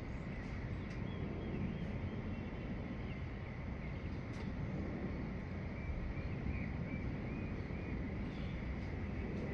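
Outdoor dawn ambience: faint bird chirps over a steady low rumble and a thin, steady high tone, with a short run of chirps past the middle.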